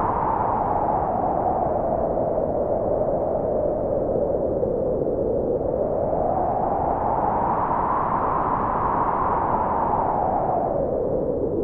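Synthesized wind-like noise through a resonant filter that sweeps slowly down, back up and down again, with no beat. It is an electronic music passage.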